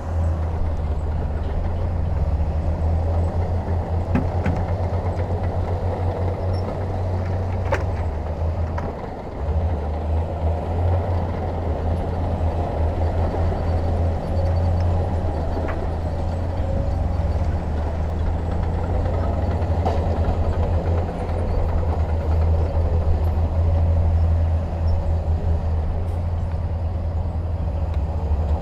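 Heavy diesel machinery running steadily close by, a deep engine rumble with a few faint clanks.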